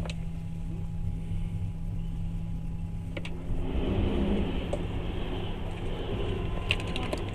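Steady rumble of a moving passenger train heard from inside the carriage, with a sharp click at the very start. About three and a half seconds in, a louder rushing noise sets in as another train passes close alongside, with a few clicks near the end.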